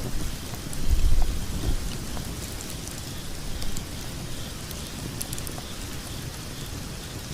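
Log fire burning in a fireplace: scattered sharp crackles and pops over a low rumble of the flames, which swells briefly about a second in.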